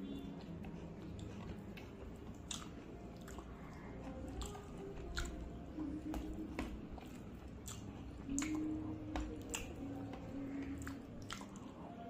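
Close-up chewing with wet mouth smacks, heard as many short sharp clicks, as rice and fish curry are eaten by hand. Soft squishing of fingers mixing rice on the plate comes in between.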